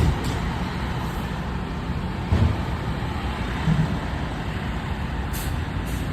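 Fire engine's diesel engine running steadily as a low rumble, with two brief louder swells about two and a half and four seconds in.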